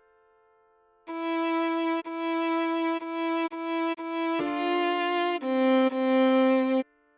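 Solo viola playing a slow melody line at half speed: after about a second of quiet, five short notes on one pitch, then two lower, longer notes. It stops abruptly near the end.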